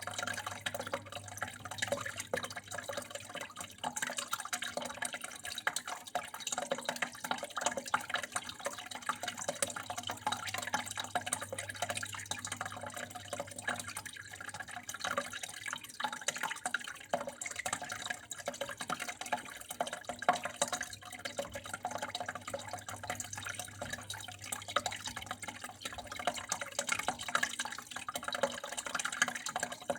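Water flowing and splashing in a steady, busy patter of drips and trickles. A faint low hum underneath fades out near the end.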